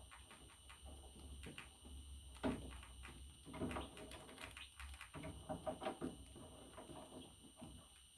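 A pet budgie making faint, short chirps and clicks in a few brief clusters.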